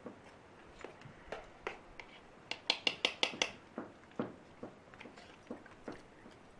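Light, irregular taps and clicks of a utensil against a metal canteen cup, with a quick run of five or six sharper clicks about two and a half seconds in.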